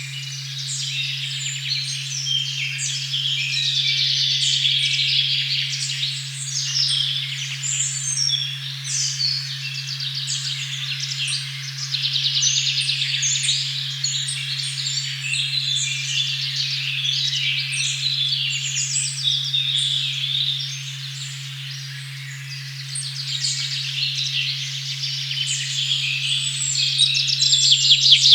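A steady, low 136.1 Hz sine tone hums under a dense chorus of forest birdsong, many chirping calls overlapping. The birdsong grows louder near the end.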